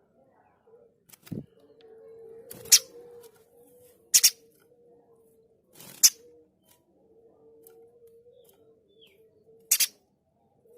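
Mountain spiderhunter giving five short, sharp, high-pitched harsh call notes, two of them doubled, spaced one and a half to three and a half seconds apart. A faint steady hum runs underneath, and there is a low thump about a second in.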